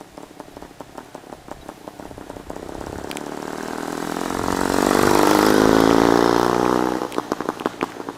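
Vintage motorcycle engine running with rapid, even firing. It grows louder to a steady peak in the second half, then is throttled back to a patter of separate firing strokes near the end.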